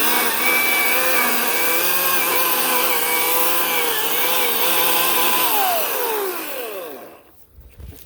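Ryobi 18-inch electric chainsaw running at full speed with a steady high whine, dipping slightly now and then. About five and a half seconds in, it is released and its whine falls away as the chain coasts to a stop.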